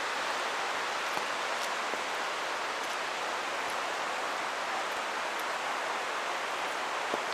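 Steady rush of a creek's running water, with scattered small raindrop ticks on top.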